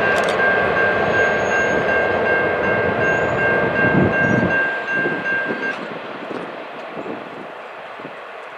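Locomotive horn sounding a steady multi-note chord over the rumble of a passing train. The horn cuts off about six seconds in and the rumble fades away.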